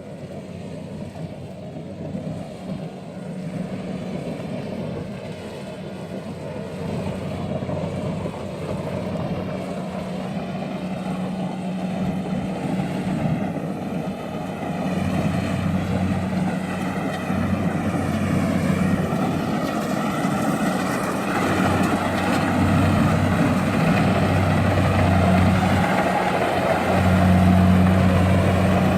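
Engine of a heavy farm machine running steadily with a low hum, growing gradually louder.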